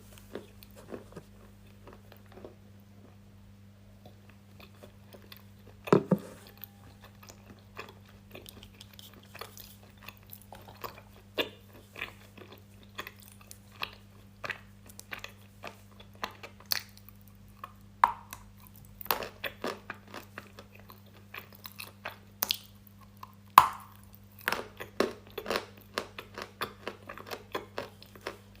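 Close-miked crunchy chewing and biting: many sharp crunches with a few louder bites, over a steady low electrical hum.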